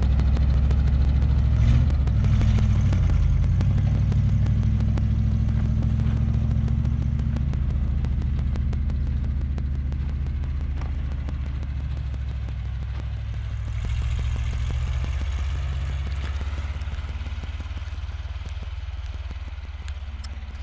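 1973 Ford F-250's 360 V8 engine running as the truck drives. Its pitch changes slightly about two seconds in, it picks up briefly near the three-quarter mark, and it grows gradually fainter.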